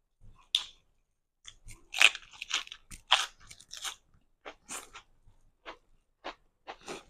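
A person biting into a lettuce-leaf wrap and chewing it close to the microphone: crisp crunching, loudest and densest about two to four seconds in, then slower single crunches as the chewing goes on.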